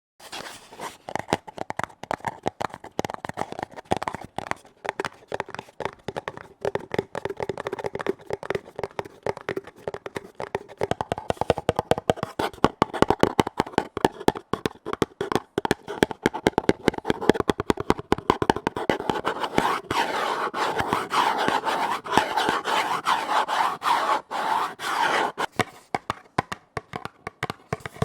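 Rapid, continuous tapping on lids, dense clicks with a faint ring from the lids, growing louder and busier about halfway through.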